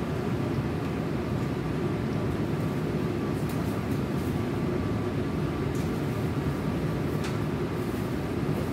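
Tokyo Metro 18000 series electric train running at speed, heard from inside the passenger car: a steady rumble of wheels on rail with a faint steady tone above it and a few light clicks.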